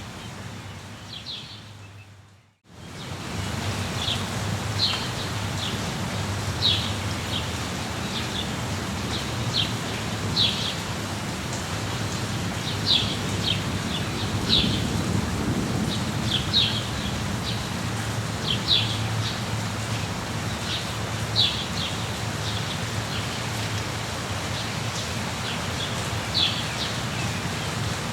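Rainforest ambience: a steady hiss of rain over a low rumble, with a bird giving short, high calls again and again. About two seconds in, the sound fades briefly to near silence, then returns.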